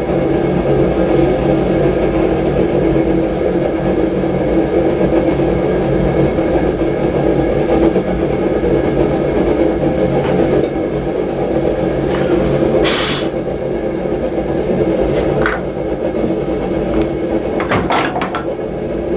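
A forge running with a steady roar, with a few sharp knocks in the second half.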